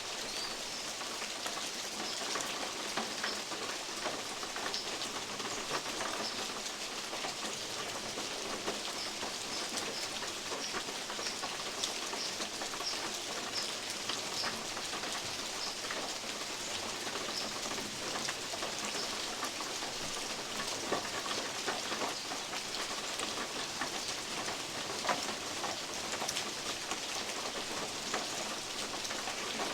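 Steady rain in woodland, with big drops falling from oak leaves and tapping irregularly on a metal roof. A bird gives short, repeated high chirps through the first half.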